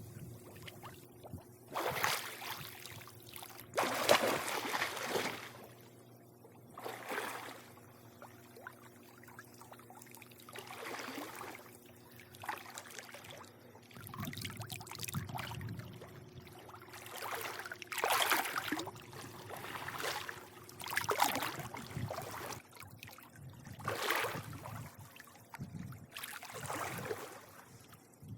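Swimming-pool water lapping and sloshing in irregular surges every few seconds, over a faint steady hum.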